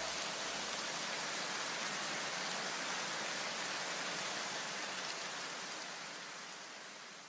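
A steady, even hiss with no tone or rhythm in it, fading away over the last couple of seconds.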